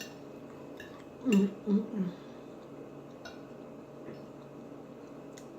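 A utensil clinking against a plate a few times while eating, with a short burst of voice, in three quick pulses, about a second and a half in.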